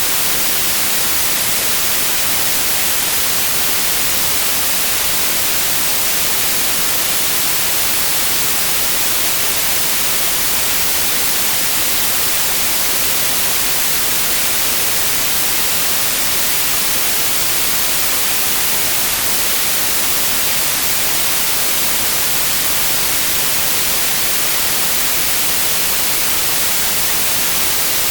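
Continuous white noise, an even hiss that stays at one level and grows brighter toward the highs, with no events or changes.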